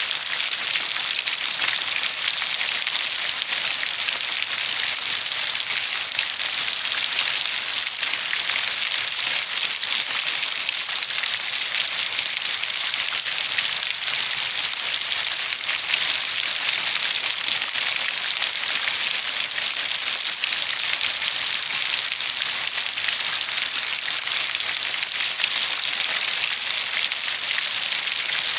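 Steady, heavy rain falling, a dense patter of drops hitting a surface with no let-up.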